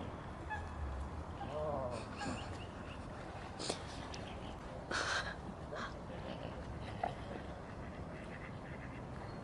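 Waterfowl calling: a handful of short calls scattered over a steady outdoor background, the loudest about halfway through.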